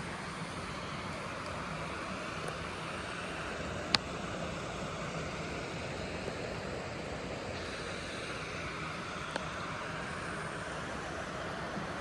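Steady rushing of flowing creek water, with a single sharp click about four seconds in.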